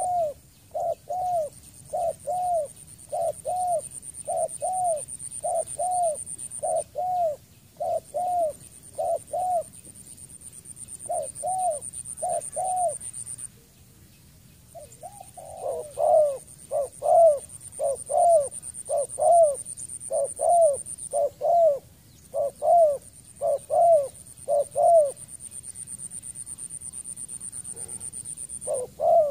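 Spotted dove calling: a rapid series of short, arched coos, about one and a half a second, in runs broken by pauses of a second or more. The run in the second half is louder.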